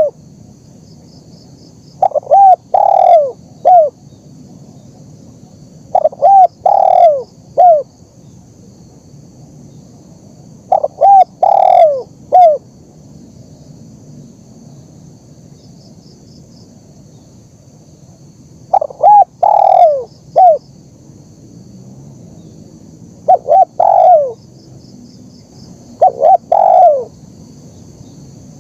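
Spotted dove (terkukur) cooing, repeated six times with gaps of a few seconds. Each phrase is a few short coos with one longer, louder note in the middle.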